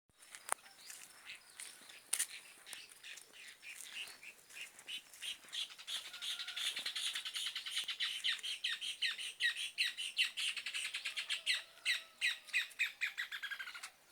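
Caatinga cacholotes (casaca-de-couro) calling: a long run of rapid, harsh chattering notes that builds up, runs at several notes a second and breaks off near the end.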